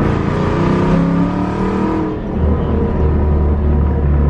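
2003 Ford Mustang Mach 1's 4.6-litre DOHC V8 accelerating, heard from inside the cabin: its pitch rises for about two seconds, dips briefly, then pulls on as a steady low drone.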